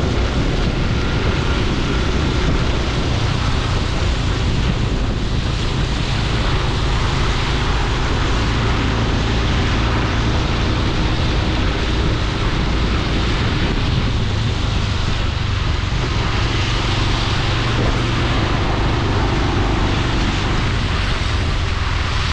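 Honda Super Cub C125's 125 cc single-cylinder engine running steadily while riding, under wind rushing past the microphone and road noise. The engine's pitch shifts a little with speed.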